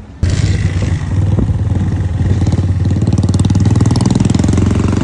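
Motorcycle engine running steadily under way, a low hum made of fast, even pulses. It cuts in abruptly just after the start.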